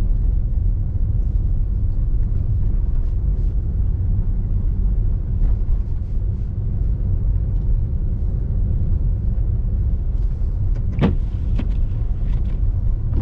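Steady low rumble of a car driving on snowy roads, heard from inside the cabin. A few faint clicks run through it, and a sharper click comes about eleven seconds in.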